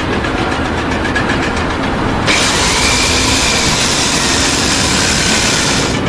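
A machine's engine running steadily with a faint even rhythm. About two seconds in, a loud hiss joins it and cuts off shortly before the end.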